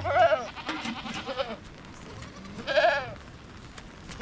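Goats bleating: three wavering calls, the loudest at the start and about three seconds in, with a shorter one between.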